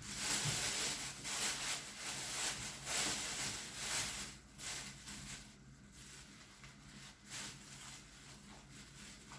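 Crinkling and rustling of the plastic packaging around raw chicken breasts as it is handled, busiest for about the first four seconds, then quieter, intermittent handling.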